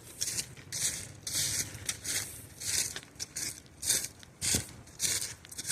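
Footsteps crunching on gravel at a steady walking pace, about two steps a second.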